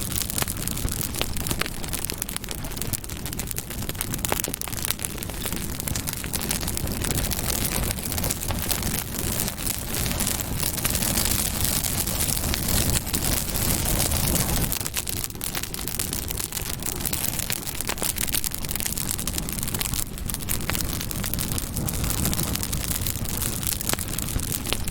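Campfire crackling, with frequent small pops and snaps over a steady low rush of burning.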